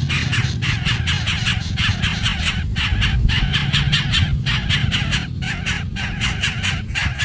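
Young birds begging with rapid, harsh, repeated squawks, several a second without a break, over a steady low rumble.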